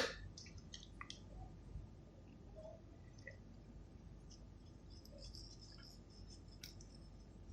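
Mostly quiet, with a few faint clicks and, later on, a faint high sizzle: a soldering iron drawing desoldering wick across the pads of a PS5 APU to soak up the old solder.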